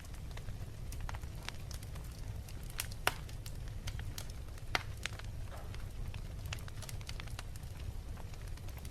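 Wood fire crackling in a fireplace: irregular sharp pops and snaps over a steady low rumble, two louder pops about three and about four and a half seconds in.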